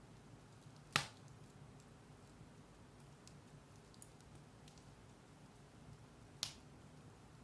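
Firewood burning in a fireplace: a low steady background with faint ticks and two sharp crackling pops, one about a second in and one near the end.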